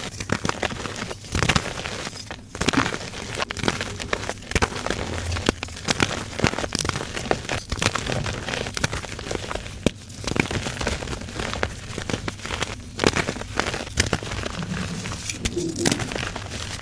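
Gym chalk being crushed, a dense run of crunching and crackling with sharp snaps throughout.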